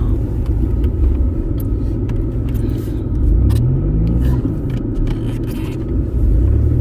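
Audi quattro driving, with a steady low rumble. The engine note rises about three and a half seconds in, and again near the end.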